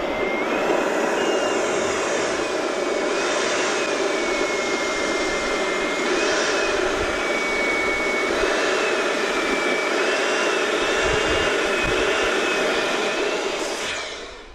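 Electric balloon inflator blowing air into a latex balloon: a steady rush of air with a motor whine that wavers up and down in pitch, cutting off near the end.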